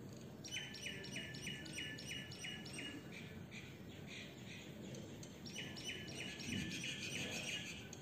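A bird calling in quick runs of the same short chirp repeated evenly, about three to four a second: one run starting about half a second in and lasting roughly two and a half seconds, and a second from about five and a half seconds in that carries on almost to the end.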